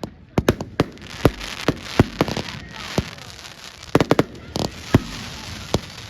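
Fireworks going off: many sharp bangs at irregular intervals, some in quick clusters, over a steady crackling.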